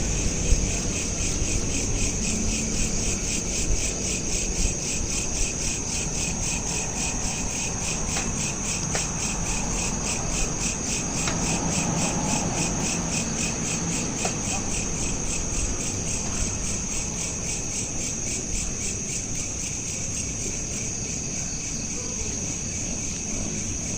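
Crickets chirping in a steady, fast-pulsing high trill, over a low background rumble, recorded on a smartphone.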